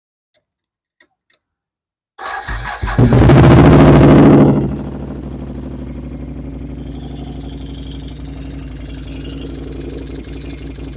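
Can-Am Outlander 500 ATV's V-twin engine started by bridging the starter solenoid's two terminals with a screwdriver: two faint clicks, then about two seconds in it cranks, catches and revs for a couple of seconds before settling into a steady idle. It starts with the solenoid bypassed, which the owner takes as the sign of a failed starter solenoid.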